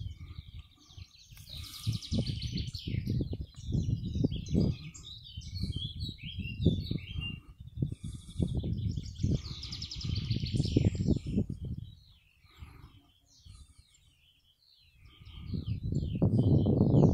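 Songbirds singing in quick chirps and trills, over low rumbling gusts of wind on the microphone that fade briefly and then build to their loudest near the end.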